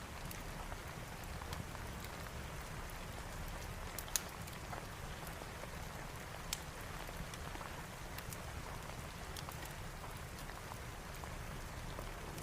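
Steady rain falling, mixed with the scattered sharp pops of a crackling fireplace; two louder pops come about four and six and a half seconds in.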